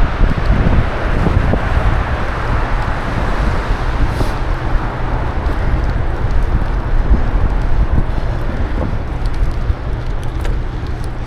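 Wind noise buffeting the microphone of a camera on a moving bicycle: a loud, steady rush heaviest in the lows, with a few light clicks near the end.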